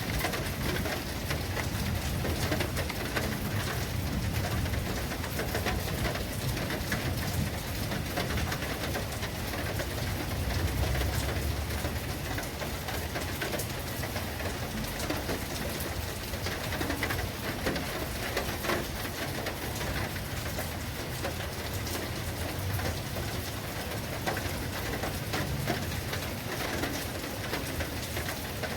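Steady heavy rain with dense patter from individual drops and a low rumble underneath.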